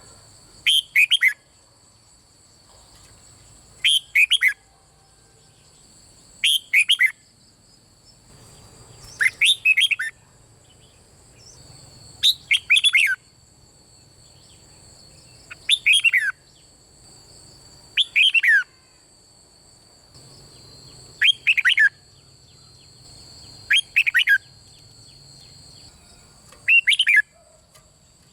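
Red-whiskered bulbul singing loud short phrases of quick, falling whistled notes, one phrase every two to three seconds. A thin, steady high-pitched whine runs underneath.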